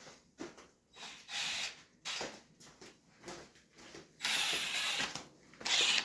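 Ratchet wrench clicking in short spells as it works the 8 mm bolts holding the CDI unit, with a longer run of ratcheting about four seconds in.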